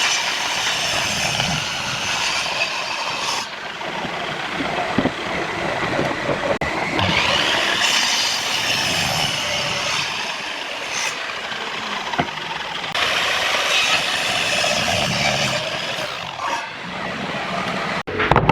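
A power tool working wood runs steadily and loudly, its pitch and grain shifting every few seconds as the cut or pass changes.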